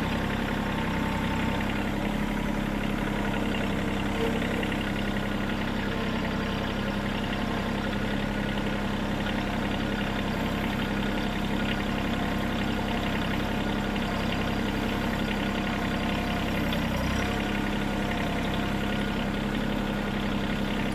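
Bad Boy compact tractor's engine running at a steady, even speed with a constant low hum, moving slowly while hauling logs.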